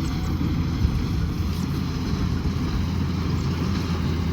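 Kubota combine harvester running steadily under load, a constant low engine drone with threshing and machinery noise over it.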